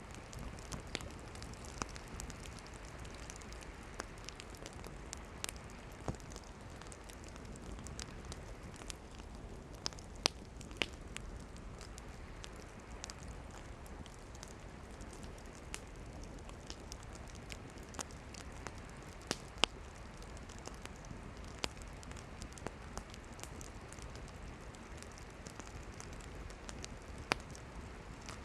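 Campfire of burning firewood crackling, with irregular sharp pops over a steady low hiss; a few pops stand out louder.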